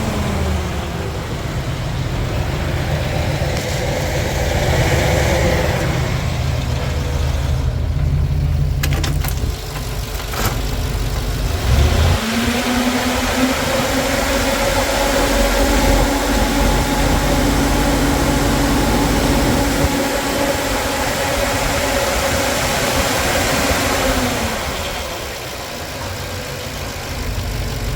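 GM 8.1L gasoline V8 engine running. Its revs fall to idle at the start, rise about twelve seconds in and hold for roughly twelve seconds, then drop back toward idle near the end.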